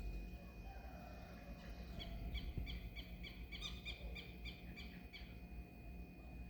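A bird calling faintly: a quick run of short, repeated high chirps, about three or four a second, lasting about three seconds from two seconds in. A faint steady high-pitched tone runs underneath.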